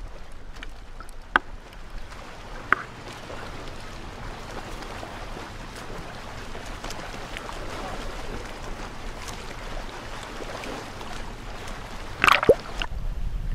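Water sloshing and gurgling around a camera half-submerged at the waterline, with two sharp knocks in the first few seconds and a louder splash about twelve seconds in.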